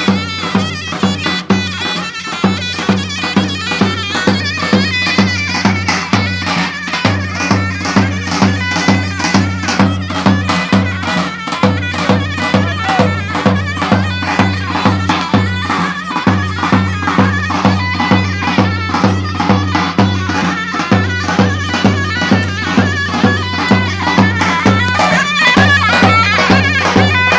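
Turkish folk music on davul and zurna: a shrill, reedy double-reed melody over a steady bass-drum beat.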